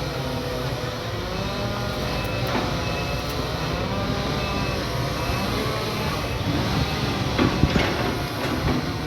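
Excavator's diesel engine running steadily under load, its pitch rising and falling a little, with a few sharp knocks about three quarters of the way through.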